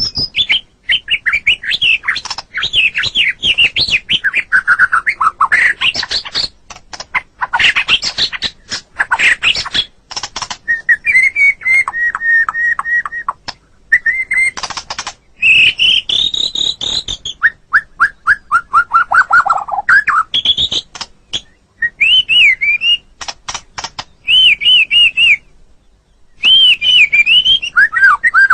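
White-rumped shama (murai batu) singing a varied song: loud whistled phrases, runs of quickly repeated notes and falling sweeps, separated by short pauses.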